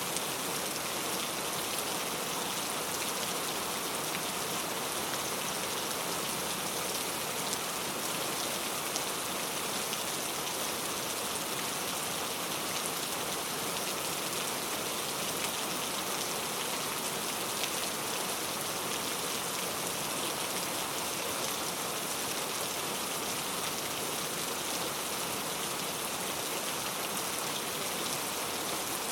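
Very heavy rain falling steadily, a dense even hiss of drops striking a surface with fine individual drop ticks.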